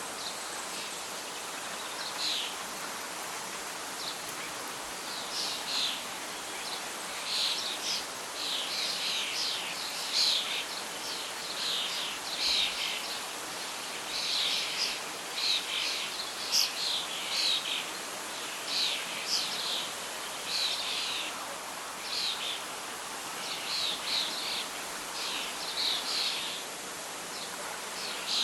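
Birdsong, a run of short repeated chirps and twitters, over a steady soft hiss of wind and rustling leaves.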